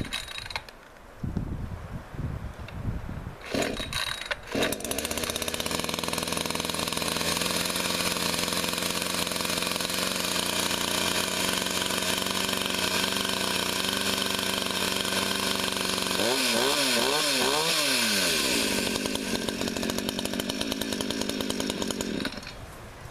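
Gas two-stroke chainsaw pull-started twice, catching about five seconds in and running steadily. It revs up and down a few times and then stops shortly before the end. The saw had refused to restart after running out of fuel; the owner puts the trouble down to an air pocket in the gas line.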